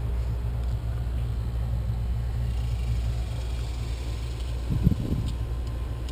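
Steady low rumble, with a brief knock about five seconds in.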